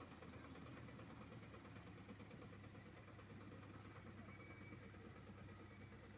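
Faint, steady engine hum of heavy road-paving machinery running.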